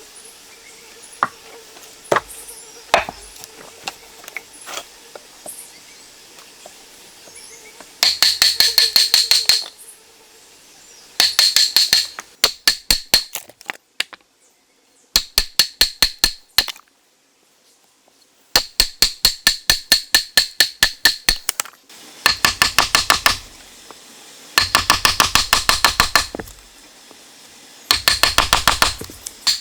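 Runs of rapid, hard tapping strikes with a ringing, clinking edge, about ten a second, in bursts of one to two seconds with short pauses. Before them come a few scattered single clicks.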